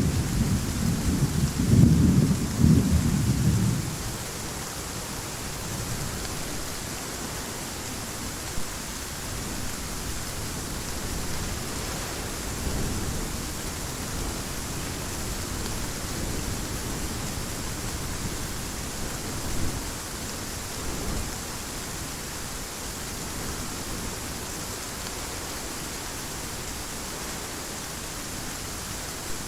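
Heavy rain falling steadily through a thunderstorm, with a loud rumble of thunder in the first few seconds that fades away, and fainter distant rumbles later on.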